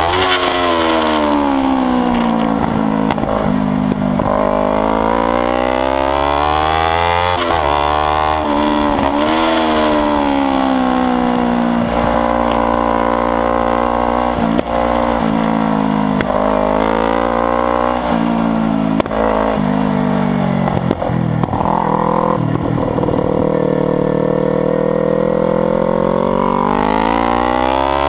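Kawasaki Ninja 300's parallel-twin engine running loud through an open exhaust, its revs climbing and falling again and again as it accelerates and slows through corners. Some of the climbs cut off with a quick drop in pitch at the gear changes.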